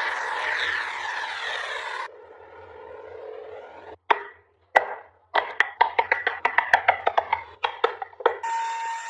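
A rasp or file scraping across a fukken hiba wood carving, cut off abruptly about two seconds in. After a quieter scraping spell, a couple of sharp taps are followed by a quick run of taps, about five a second, from hand tools working the wood.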